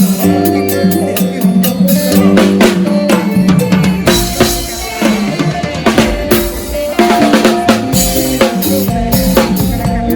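Drum kit played live in a mor lam band, a steady beat of snare, kick and cymbals over sustained bass and keyboard notes. The kick drum comes in heavier about four seconds in.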